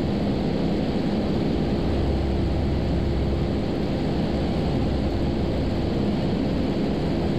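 Cessna 172's piston engine and propeller running with a steady drone in flight, heard from inside the cabin.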